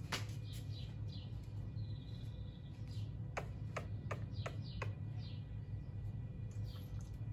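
Bird chirping: a quick run of about five sharp, downward-sweeping calls midway, with softer high chirps before and after, over a steady low hum.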